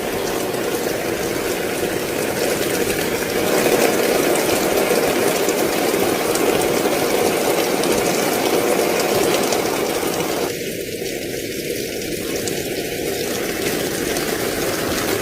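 Fast-flowing muddy floodwater rushing down a street: a steady, loud rushing noise.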